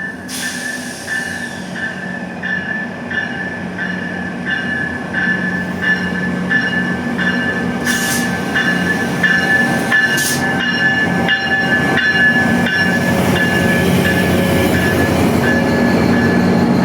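MP40PH diesel locomotive pulling a passenger train into a station, its engine running steadily and growing louder as it comes closer. The locomotive's bell rings about twice a second throughout, and two sharp clanks come about eight and ten seconds in.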